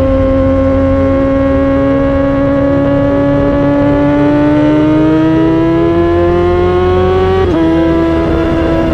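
Kawasaki motorcycle engine and exhaust running at high revs under way, its pitch climbing slowly as it pulls. About seven and a half seconds in the pitch dips suddenly, then holds steady.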